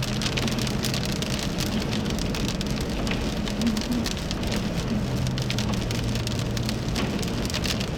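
Rain striking a vehicle's roof and windshield as many small drop hits, over the vehicle's steady low hum.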